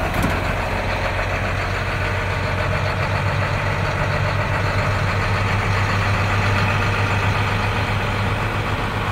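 International 4300 box truck's diesel engine idling steadily with an even low hum.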